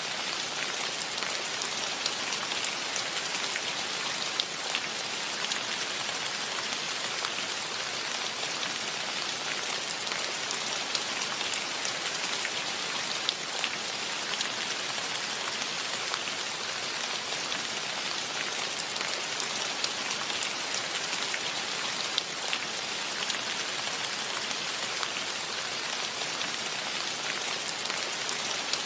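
Steady rain falling, a dense even patter with individual drops ticking through it and a few louder single drips now and then.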